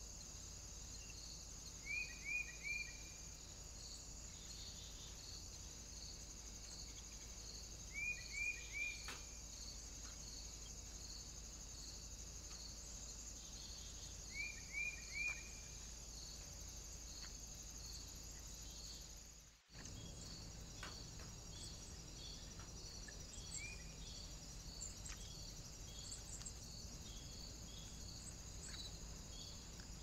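A small songbird calling: short phrases of three quick descending notes, repeated three times about six seconds apart, then one more single note later. Under them runs a steady high-pitched hiss with a faint pulse about twice a second, like an insect chorus.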